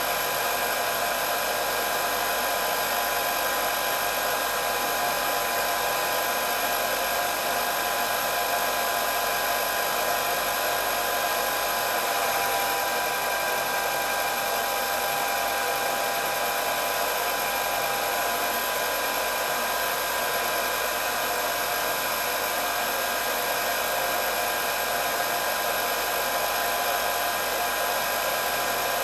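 Electric hair dryer running steadily: an even rushing blow of air with a high motor whine through it, thin and with little low end.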